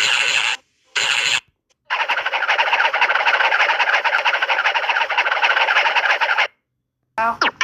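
Hanna-Barbera cartoon sound effects: two short bursts, then a long, rapid buzzing flutter lasting about four and a half seconds, and near the end a quick rising slide in pitch as the next effect begins.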